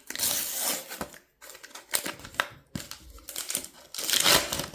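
Panini sticker-pack wrapper crinkling as it is torn open and handled. There are two loud stretches of rustling, one at the start and one near the end, with a few light clicks and rustles between them.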